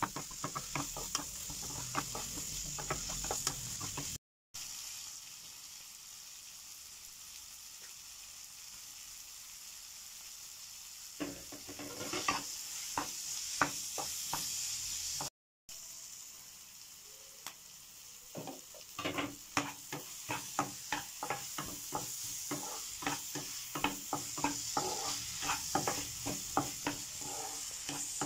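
Chopped onion, tomato and capsicum sizzling in oil in a non-stick pan while a wooden spatula stirs, scraping and knocking the pan in quick strokes. The stirring comes in runs, with a stretch of several seconds a little after the start where only the sizzle is heard, and the sound cuts out briefly twice.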